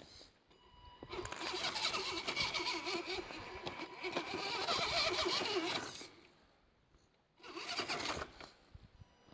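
Farm truck's engine revving under load as it crawls over rock, in one long run of several seconds, a brief drop away, then a shorter second rev.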